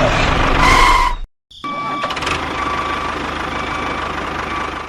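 A motor or engine running steadily with a thin high whine, interrupted by a sudden drop to silence about a second and a half in before it resumes.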